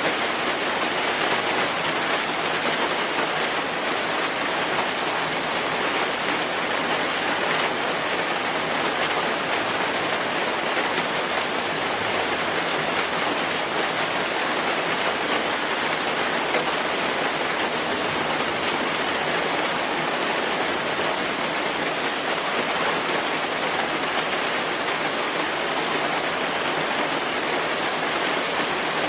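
Steady rainfall: an even hiss of rain with a dense patter of drops on a surface, no breaks or changes.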